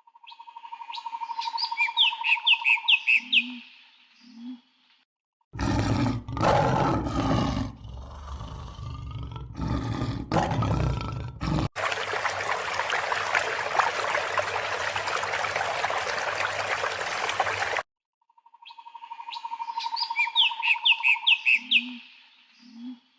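A short burst of bird-like chirps over a steady tone, then a large animal's deep roar lasting about six seconds, cut off suddenly by about six seconds of steady hiss; the same chirping burst then repeats near the end.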